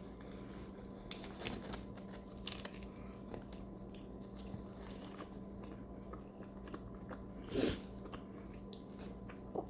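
A person chewing and biting food close to the microphone, with small scattered mouth clicks and a louder bite about seven and a half seconds in.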